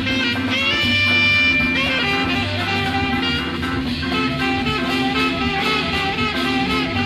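Late-1960s jazz-rock band recording in an instrumental passage: horns hold sustained notes over guitar, bass and a steady drum beat.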